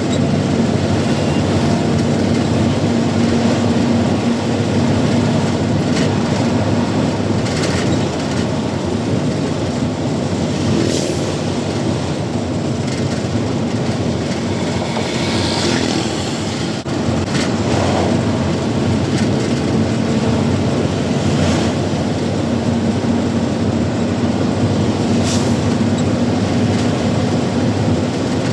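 Truck engine running and road noise, heard from the cab while driving, a steady loud rumble with a low hum and a few brief rattles or knocks.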